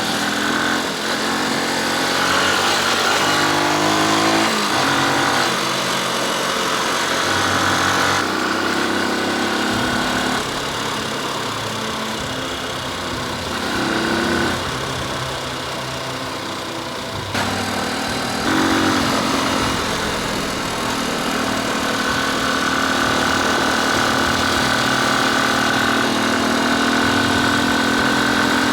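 Motorcycle engine running under way, its pitch rising and dropping several times as it accelerates and shifts, then holding a steady pitch in the latter part.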